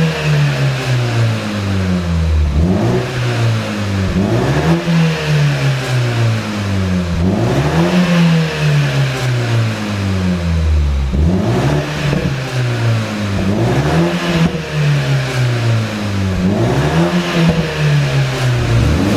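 BMW G29 Z4 sDrive20i's 2.0-litre turbocharged four-cylinder free-revving over and over, about every two seconds, each rev climbing quickly and sinking slowly back, with exhaust pops and crackles on the overrun from a pop-and-crackle tune.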